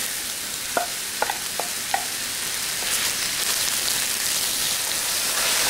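Sliced king oyster mushrooms sizzling as they go into hot garlic-infused oil in a stainless-steel electric wok and are stirred with a wooden spatula. There are a few light clicks in the first two seconds, and the sizzle builds slightly after that.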